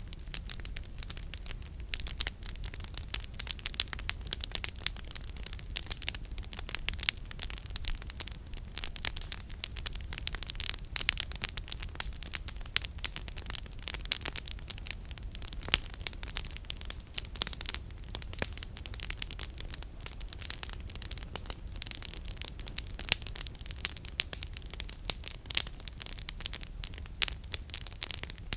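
Campfire firewood burning with constant irregular crackling and popping, and a steady low rumble underneath.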